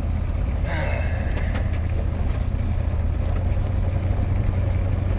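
Steady low road rumble inside the cab of an old non-running parts truck under tow, with light rattles and knocks from the cab.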